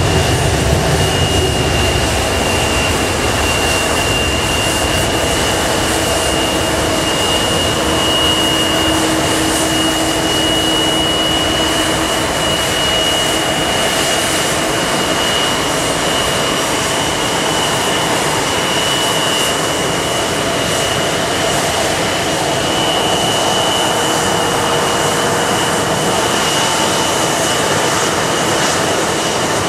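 Boeing 777-300 jet engines heard inside the cabin: a steady, loud noise with a thin high whine over it. A low rumble fades away in the first couple of seconds.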